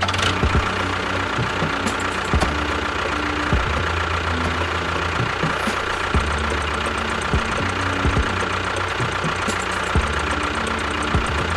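An engine running steadily with a knocking beat and a scatter of sharp clicks.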